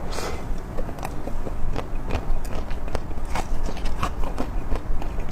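Close-miked eating sounds: irregular crisp bites and crunches, a scatter of sharp clicks over a low steady rumble.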